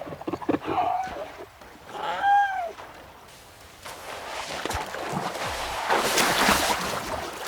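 A harp seal calling: a faint short cry, then about two seconds in a clearer cry that rises and falls in pitch. From about four seconds, a steady wash of water noise that grows louder.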